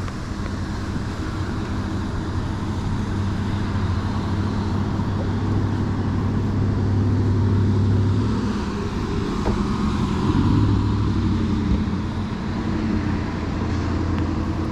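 A boat's motor running with a steady low hum that swells and eases a little, over wind and water noise.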